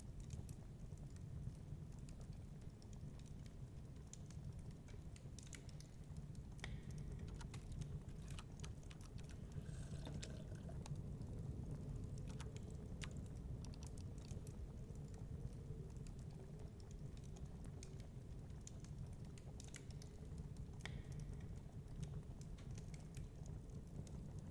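Wood fire crackling, with scattered sharp pops and clicks over a steady low rumble of storm wind.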